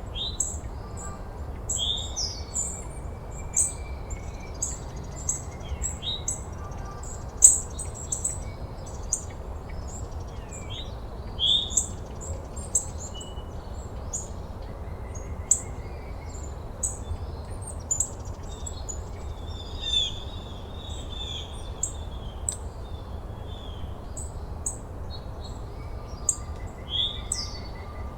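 Several birds chirping with short, high calls and occasional trills, scattered throughout, over a steady low rumble.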